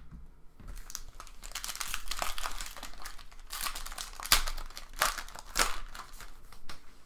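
Foil trading-card pack wrapper crinkling and tearing as a pack of 2017 Panini Optic football cards is opened, with two sharper rips about two-thirds of the way through.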